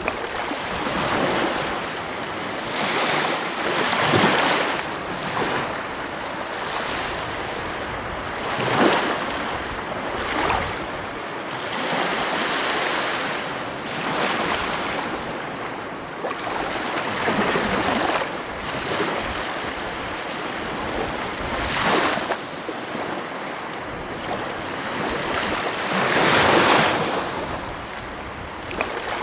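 Heavy ocean waves breaking on the coast: a continuous wash of surf that swells into a louder crash every few seconds.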